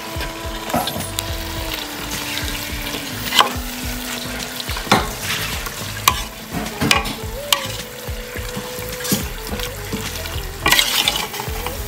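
Marinated chicken pieces sizzling in a stainless steel pot while they are stirred with a slotted metal spatula, with several sharp scrapes and knocks of the spatula against the pot, the busiest burst near the end.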